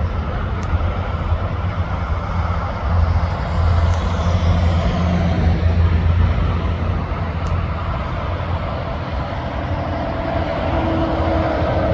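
Road traffic with heavy trucks passing: a deep engine rumble with tyre and road noise that swells for a few seconds as a vehicle goes by, then a steady whine joins in near the end.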